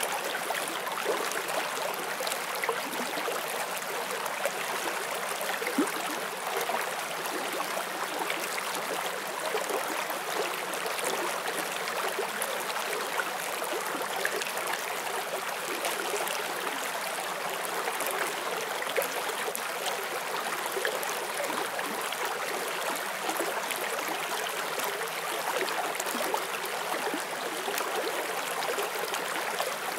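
Forest stream flowing over stones, a steady splashing and gurgling rush of water.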